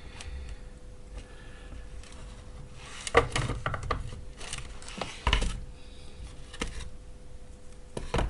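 Battery cell blocks and small hard parts being handled and set down on a workbench: scattered clicks and knocks, loudest about three and five seconds in, over a faint steady hum.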